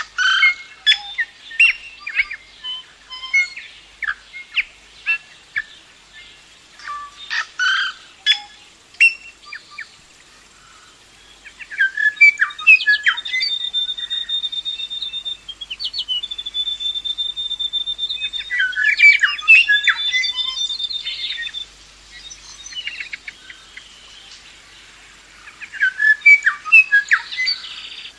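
Songbirds singing: a string of sharp chirps and short calls, then from about twelve seconds in a busier song with long, steady high whistled notes, and another burst of chirps near the end.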